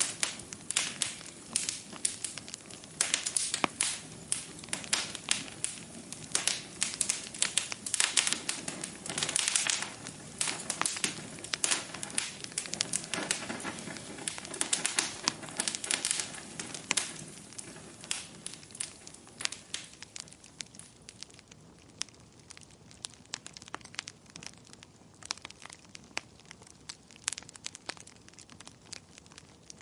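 Wood fire crackling in a fireplace: a dense run of snaps and pops over a soft hiss, thinning out after about 18 seconds to sparser, quieter pops.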